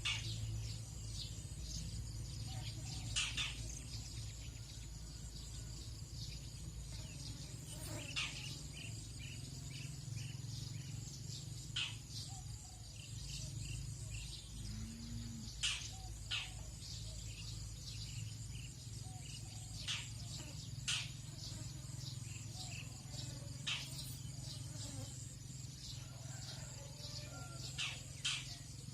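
Tropical dawn chorus: insects keep up a steady high-pitched buzzing while birds give about a dozen short, scattered chirps, over a steady low rumble.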